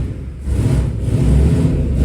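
A vehicle's engine running with a deep, uneven rumble that gets louder about half a second in.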